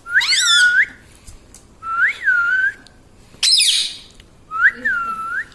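Pet parrot giving four whistled calls in turn, two with a quickly wavering pitch and two that rise, fall and rise again.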